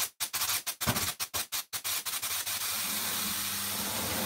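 Potatoes and onions sizzling in oil in a wok, a steady hiss broken by several brief drop-outs in the first two seconds.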